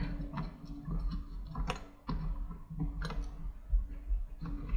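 Scattered light clicks and taps of small metal screws being hand-threaded into a low-profile CPU cooler's mounting holes from the back of a motherboard.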